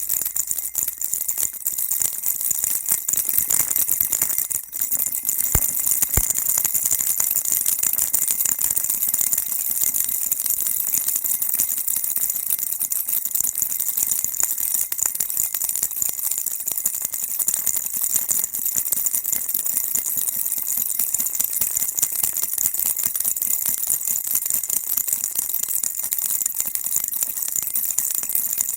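Baby rattle shaken continuously in a fast, even rhythm, giving a bright, high-pitched shaking sound, with a brief break about five seconds in.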